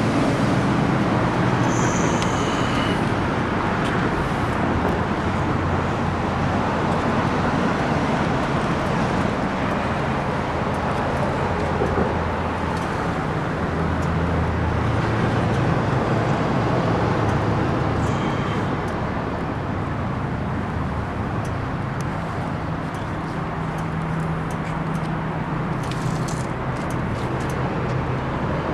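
Steady motor-vehicle noise: a continuous rumble with a low engine hum that drifts slowly in pitch.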